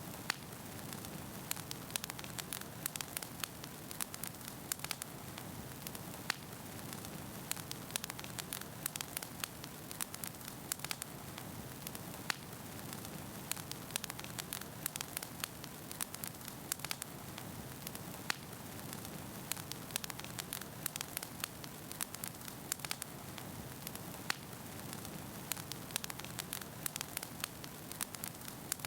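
Wood fire burning in a fireplace: a steady low rush with frequent, irregular sharp crackles and pops from the burning firewood.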